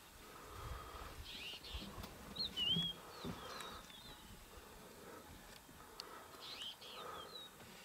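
Wild birds calling in the bush: short whistled phrases that swoop up and down, a few times over several seconds, one phrase repeated about two and a half seconds in. Faint low rumbling noise underneath.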